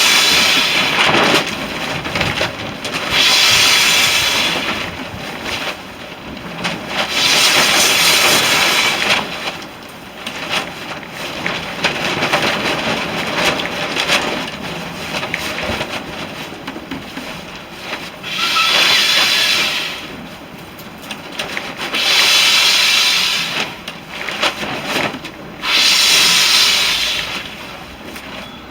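A person blowing long, steady breaths into a smouldering tinder bundle to coax the ember to flame: a series of hissing blows, each a second or two long, a few seconds apart.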